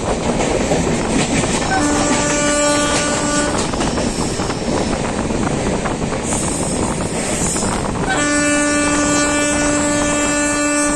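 A passenger train is running on the rails, with a steady rumble and rattle. A locomotive horn sounds twice over it: a short blast about two seconds in, and a longer, steady blast starting about eight seconds in.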